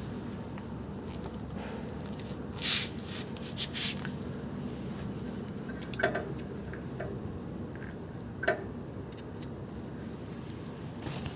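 Car engine idling steadily, with a few short clicks and rustles of handling about three, six and eight and a half seconds in.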